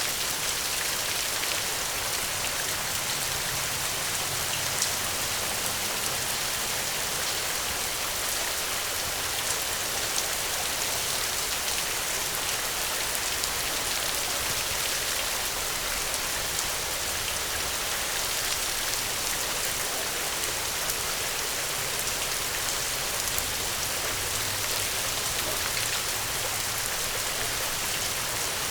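Steady, heavy rain hissing evenly, with occasional short sharp ticks scattered through it.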